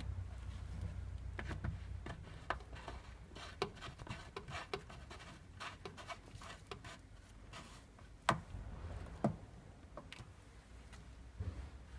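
Scattered light clicks and knocks of small parts being handled, the sharpest about eight seconds in, over a low hum that fades about two seconds in.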